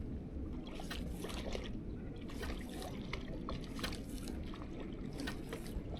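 Water lapping and trickling, with many small irregular clicks and drips.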